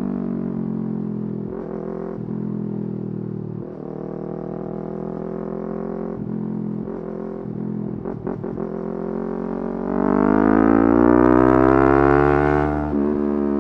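Yamaha R3's 321 cc parallel-twin engine under riding load: revs sag and waver with a few brief throttle breaks, then about ten seconds in it pulls hard with a rising, louder note and drops suddenly near the end as it shifts up.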